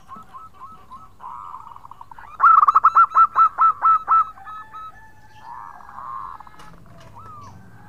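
Zebra dove (perkutut) cooing: a loud, quick run of about ten falling coos a couple of seconds in, with softer cooing before and after.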